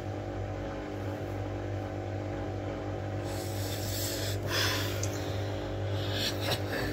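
Miele W433S washing machine running mid-cycle: a steady motor hum, with swishing from the load of soft toys and cushions in the drum about halfway through and near the end.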